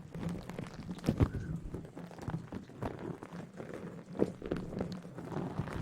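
Irregular soft taps and rustles close to the microphone, with a faint steady hum underneath.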